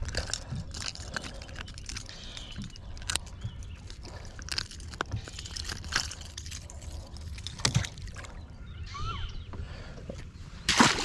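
Water sloshing and lapping around a fishing boat, with scattered knocks and clicks and a louder burst near the end.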